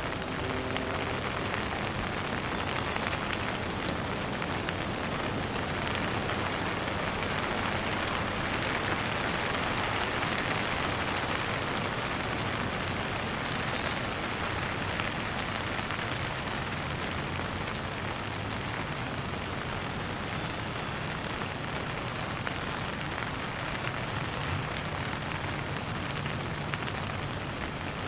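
Steady rain falling at an even level, with a brief high chirping about halfway through.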